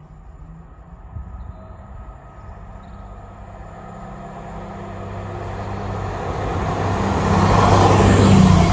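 A train approaching on the main line, its low running noise growing steadily louder until it is close by near the end.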